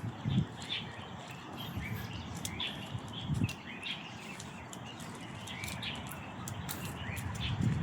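Several birds chirping with short, repeated calls, with a couple of low thuds about a third of a second in and midway.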